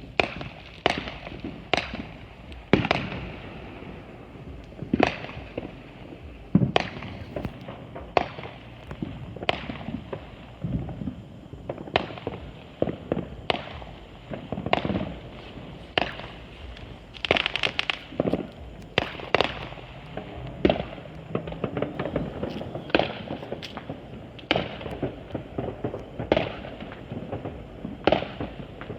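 Consumer fireworks going off at a distance: many sharp bangs and pops at irregular intervals, roughly one or two a second, over a steady crackle.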